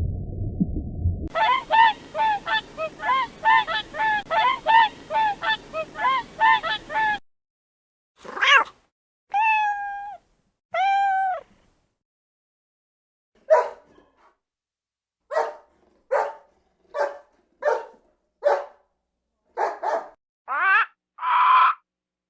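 Geese honking in several separate bursts: a rapid run of honks about three a second, then three longer, downward-bending honks, then a series of short calls. A low rumbling sound that cuts off about a second in comes before them.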